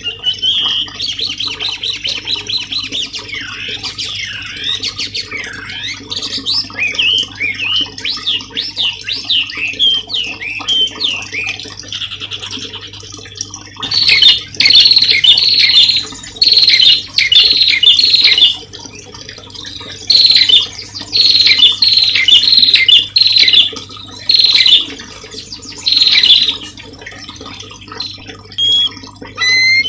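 Songbird singing: first a varied run of rapid trills and sweeping whistles, then, from about halfway, loud short bursts of quick high notes repeated in phrases.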